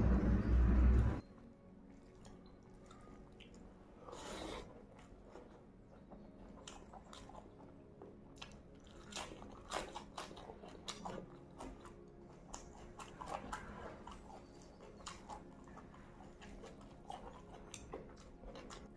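Close-up eating sounds: wet chewing of spiced mutton and rice, with many small clicks and crisp crunches, thickest around the middle. In the first second a loud low rumble of background noise cuts off suddenly.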